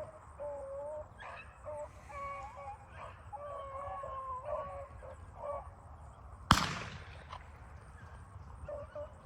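Rabbit hounds baying and bawling on a running rabbit, several overlapping wavering calls, then a single shotgun shot about six and a half seconds in, the loudest sound, with a short echo. The baying starts again near the end.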